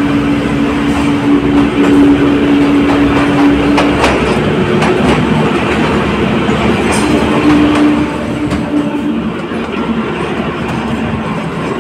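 Kalka–Shimla narrow-gauge toy train running through a tunnel, heard from inside a coach: a steady rumble of wheels on rail with a droning hum. The sound gets quieter about eight seconds in as the train leaves the tunnel.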